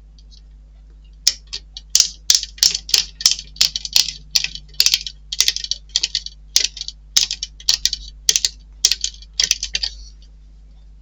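Small model-kit parts and screws being handled and fitted, giving a quick, irregular run of sharp clicks, about three a second, that stops near the end.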